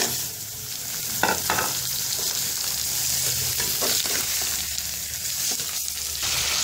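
Raw boneless chicken pieces going into hot oil with lightly fried onions and sizzling, while a metal slotted spoon stirs them and knocks against the steel pot a few times.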